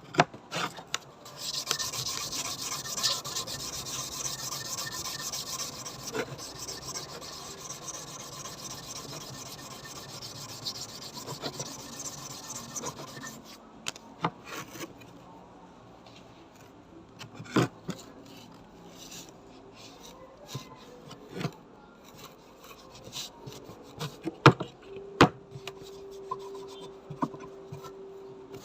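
Hand rubbing or filing on a bayonet scabbard, a continuous scraping for the first half, then scattered clicks and knocks. A faint steady hum comes in near the end.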